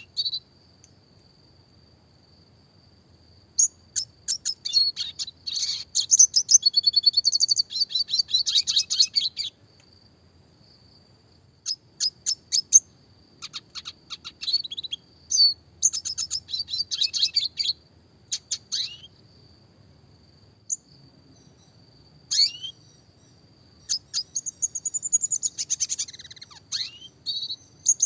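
Red siskin singing in three long bursts of fast, twittering trills and chirps, with pauses of a couple of seconds between them. A faint, thin, steady high tone sounds beneath.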